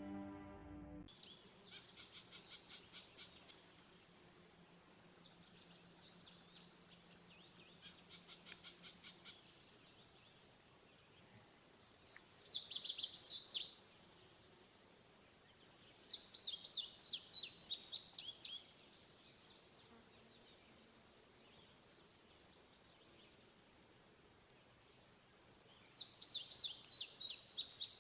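Birdsong: one nearby bird sings a quick run of high chirping notes lasting two to three seconds, three times about five to nine seconds apart, with fainter bird calls behind it.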